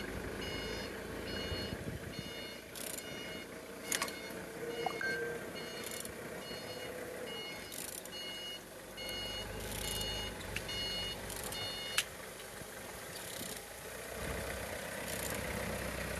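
Vehicle reversing alarm beeping steadily, about every three-quarters of a second, stopping about twelve seconds in. Under it a low machine rumble sets in a few seconds before the beeps end, with a few short clanks and scrapes.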